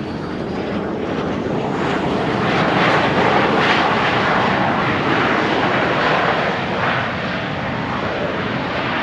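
Airplane passing close by: its engine noise swells to a peak about three to four seconds in, then eases off slowly.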